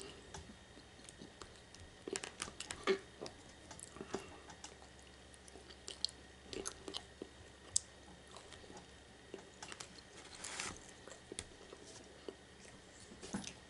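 A person chewing and eating orange chicken and rice close to the microphone, with scattered small clicks and taps of a plastic fork in a foam takeout container. A brief rustle comes about ten seconds in.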